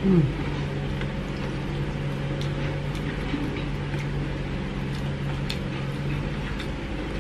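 A person eating fried rice by hand from a metal plate: faint chewing and mouth clicks over a steady low hum. It opens with a short hummed 'mm' from the eater, falling in pitch.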